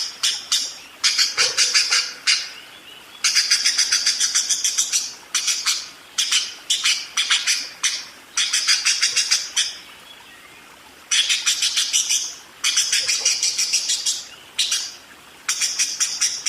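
Budgerigar chattering in fast rolling bursts of rapid clicking, chirping trills, each burst a second or two long with short pauses between. This is the busy, full-voiced 'rolling' warble of a bird singing hard.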